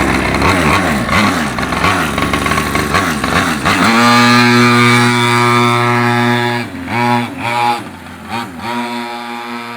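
Pocket bikes' small two-stroke engines racing past, several pitches rising and falling over each other. About four seconds in, one engine holds a loud steady high note, then its pitch dips a few times and the sound fades.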